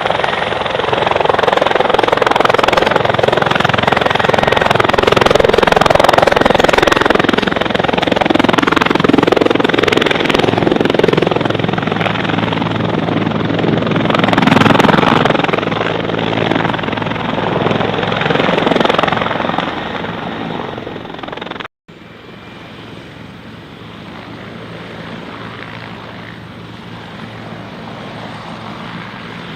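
Light propeller aircraft's piston engine running loud, its tone shifting as it passes. About 22 seconds in, the sound cuts off abruptly and a quieter, steady engine sound follows.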